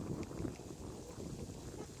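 Wind buffeting the microphone: an irregular low rumble that gradually fades.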